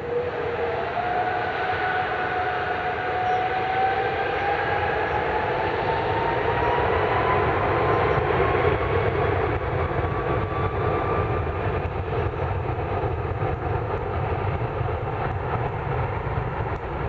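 Jet airliner engines at high power, a steady loud rush with a whine that rises slowly in pitch over the first ten seconds or so.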